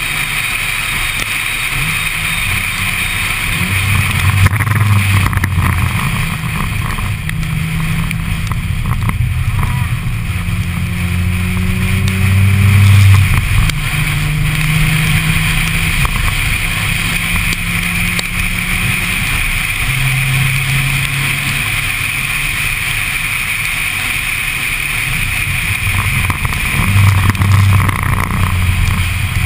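Mazda RX-8's two-rotor rotary engine driving at speed on a wet track, its drone rising in pitch several times as it pulls through the revs, with louder swells now and then. A steady hiss of wind and wet road noise runs underneath.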